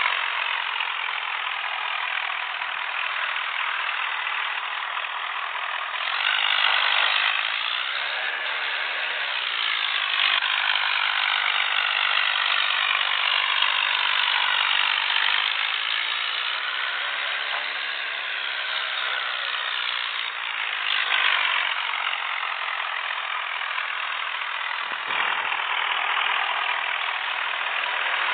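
Tractor diesel engines running hard under pulling load, with a faint rattle. Their pitch wavers up and down throughout.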